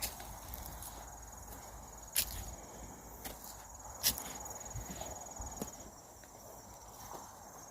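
Footsteps through woodland leaf litter, with two sharp snaps about two and four seconds in, over the steady high trill of insects.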